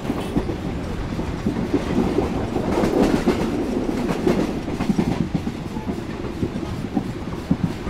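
A train rolling along the track, a steady rumble with its wheels clattering over the rail joints in many quick irregular clicks.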